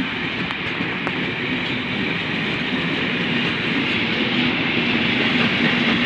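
Class 73 locomotives and test train running through the station: a steady rail rumble with a low steady hum, growing slightly louder.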